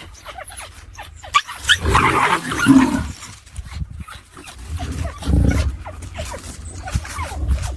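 An animal's calls in two loud bouts, one about one and a half seconds in and one about five seconds in, with scattered clicks and scuffling between them.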